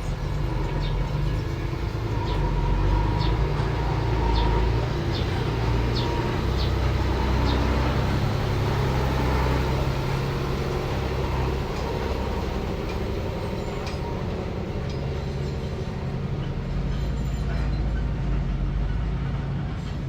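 Diesel engine of a small earthmoving machine running steadily under load, with a series of short, high clicks over roughly the first seven seconds.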